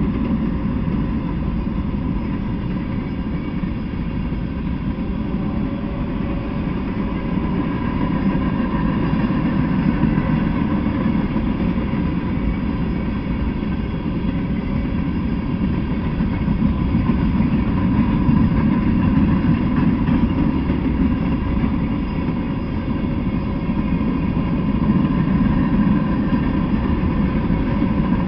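Freight train passing close by: a CN diesel locomotive followed by covered hopper cars rolling over the rails, making a steady low rumble with no let-up, and faint steady high tones above it.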